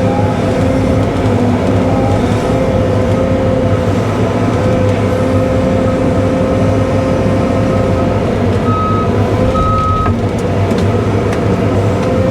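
Cat 313 excavator's diesel engine running steadily under work, with a wavering whine from the hydraulics; two brief higher whines come about nine and ten seconds in.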